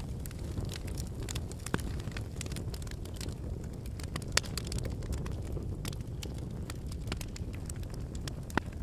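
Wood campfire burning: a steady low rush of flames with irregular sharp crackles and pops of burning firewood, a few louder pops standing out.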